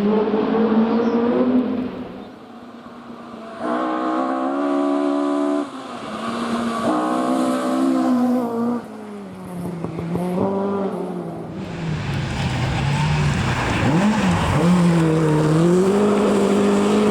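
Rally car engine revving hard through its gears, the note breaking off and coming back at each change. It drops away about two seconds in and returns strongly at about four seconds; near the end it dips low and then climbs again under acceleration.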